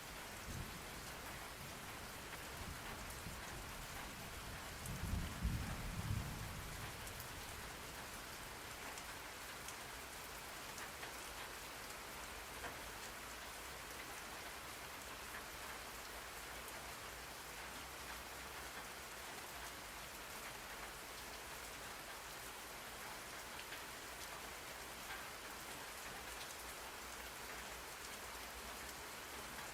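Steady rain falling, with a brief low rumble of thunder about five seconds in.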